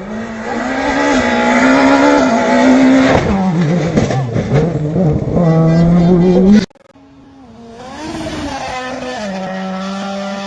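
Rally car engine running hard at full throttle, its pitch holding, dipping and climbing again with lift-offs and gear changes. About two-thirds through it cuts off abruptly, and another rally car's engine comes in, quieter at first, then building and holding steady.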